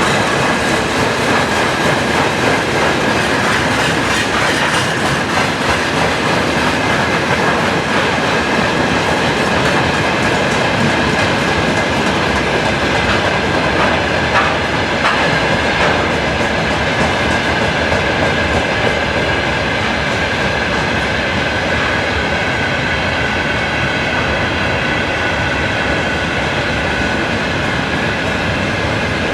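Train hauled by a 2M62 diesel locomotive rolling steadily past, its wheels clicking over rail joints, with a steady high whine. A few sharp clicks come about halfway through.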